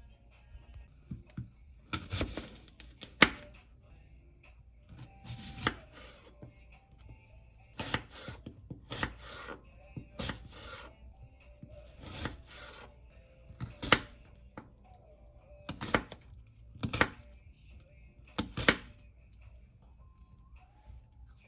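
Knife chopping on a cutting board: sharp strokes, singly or a few in quick succession, every second or two.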